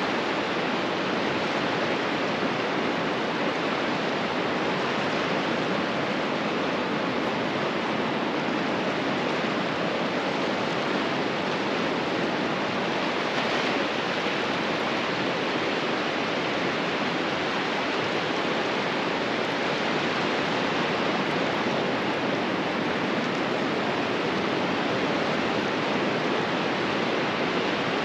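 Ocean surf breaking on a beach: a continuous, even rush of water noise that neither swells nor drops.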